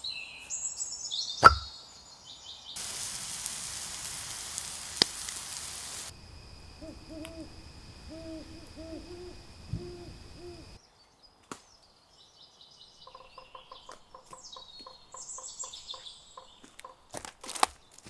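A sequence of woodland sounds joined by abrupt cuts. Birdsong and a sharp knock come first, then a few seconds of steady hiss. A run of low, repeated hoots follows, then rapid even pulses with more birdsong, and a few sharp knocks near the end.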